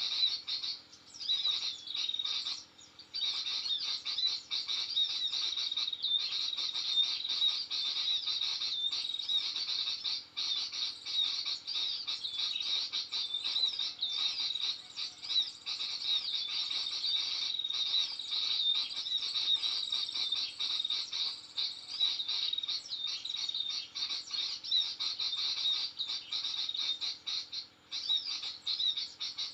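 Rapid, continuous high-pitched twittering and chirping of small birds, starting abruptly.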